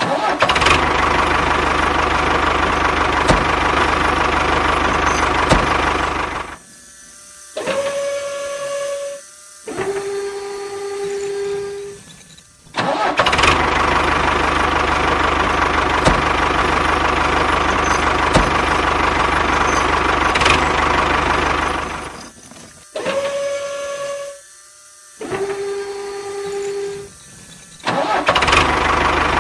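Small motor of a DIY mini tractor running: long loud stretches of a steady, noisy drone with a low hum. Between them the motor switches twice to a quieter steady whine, first at a higher pitch and then a lower one.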